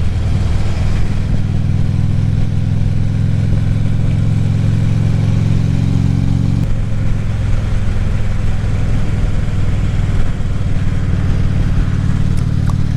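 A Harley-Davidson Ultra Classic Limited's V-twin engine running under way, with road and wind noise over it. Its note changes abruptly about seven seconds in.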